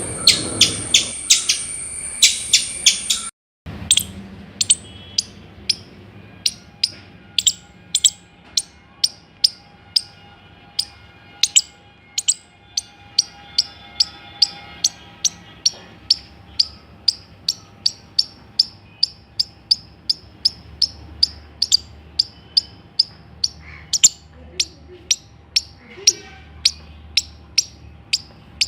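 Squirrel alarm calls: short, sharp chirps repeated about twice a second. They take over after a brief cut about three and a half seconds in, where a faster run of calls over a steady high tone stops.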